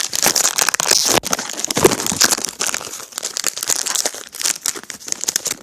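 Foil booster-pack wrapper crinkling and tearing as a Yu-Gi-Oh! card pack is ripped open by hand, a dense run of crackles and sharp snaps that stops suddenly at the end.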